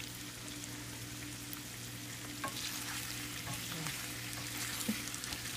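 Red-cap boletus mushrooms and onion sizzling steadily in a stainless-steel frying pan, stirred with a wooden spatula that clicks and scrapes against the pan a few times.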